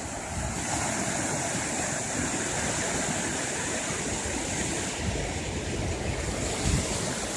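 Pacific Ocean surf washing onto the beach, a steady rush of waves.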